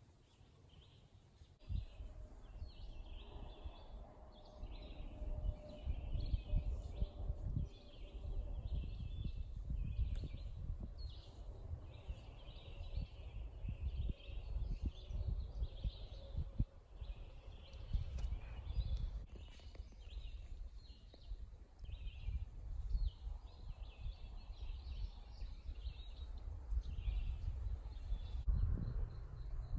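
Birds chirping over and over in short, irregular calls, over an uneven low rumble on the microphone.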